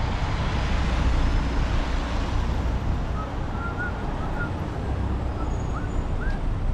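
Steady wind rush and rumble on the microphone of a moving bicycle, with a few short rising chirps in the second half.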